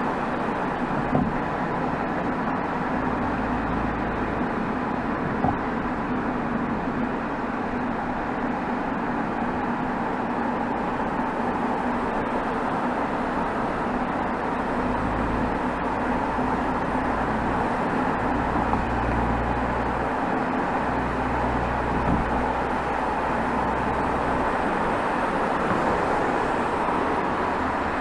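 Exhaust of a BMW 320xd G21's 2.0-litre four-cylinder turbodiesel (B47D20), recorded right at the tailpipe while driving in town, mixed with road and tyre noise. A low drone swells and fades several times as the load changes.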